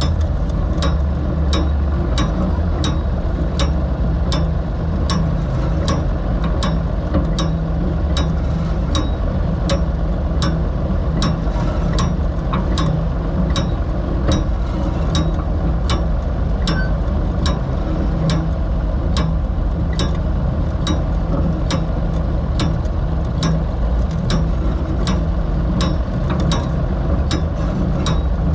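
Ford 3000 tractor engine running steadily, with a sharp, regular click, about one and a half to two a second, from the Covington one-row planter's seed-drive mechanism as it is pulled along.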